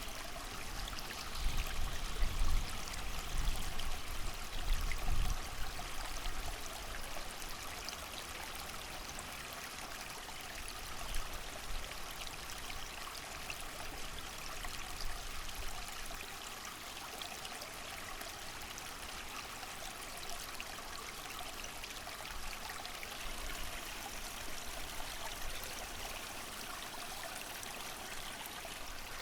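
A small creek running steadily, mixed with rain and wind. A low rumble of wind gusts swells in the first several seconds, then eases.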